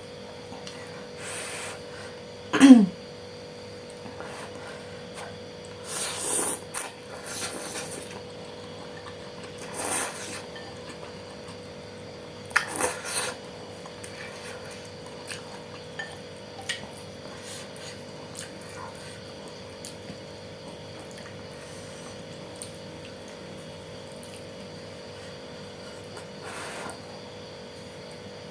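Close-miked eating sounds of saucy noodles: several short slurps and mouth noises in the first half, the loudest about 2.5 s in, then only small faint clicks of chewing and utensils. A steady hum sits beneath.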